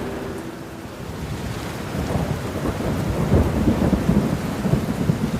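Thunder rumbling over steady rain. The rumble builds about two seconds in and is loudest around the middle, with low crackling peaks.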